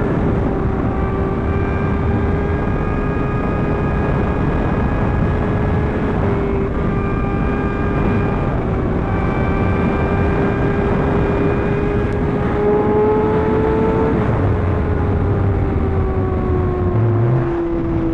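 Superbike engine running at a steady highway cruise, its pitch holding nearly level with small rises and dips and easing off slightly near the end, under a constant rush of wind noise.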